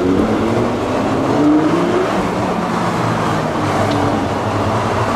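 Lamborghini Gallardo's V10 engine heard from inside the cabin, rising in pitch over the first two seconds as the car pulls away, then running steadily at low revs.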